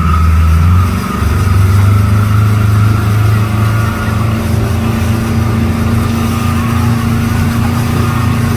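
Speedboat engine running steadily at speed, towing a banana boat, with a brief dip in level about a second in.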